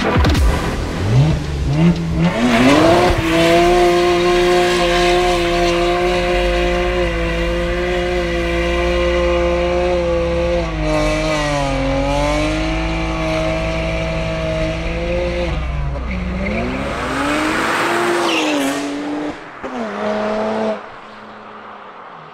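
BMW 1M Coupe's tuned twin-turbo straight-six revving up over the first few seconds, then held at steady revs under load with a hiss above it. The pitch dips and recovers twice before the sound drops away near the end.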